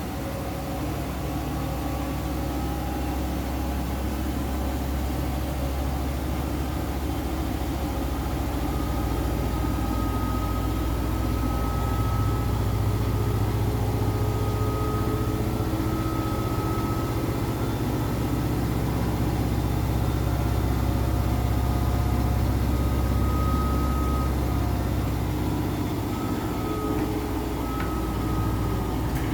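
Washing machine running with a steady low hum that slowly gets louder, with faint thin tones above it.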